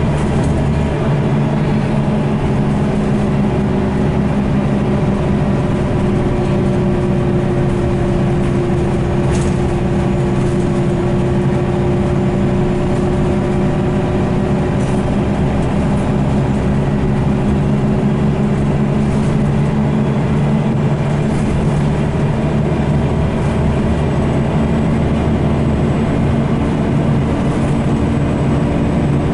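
Scania L94UB bus with a nine-litre five-cylinder diesel, running in service and heard on board. It makes a steady engine drone, and its tone sinks and rises gently as the bus changes speed through its ZF automatic gearbox.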